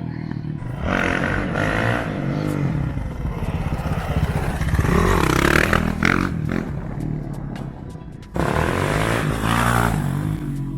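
Suzuki RMZ450 four-stroke single-cylinder dirt bike engine revving up and dropping back in repeated surges, about a second in, around five seconds in and again near the end, as it is throttled to lift the front wheel.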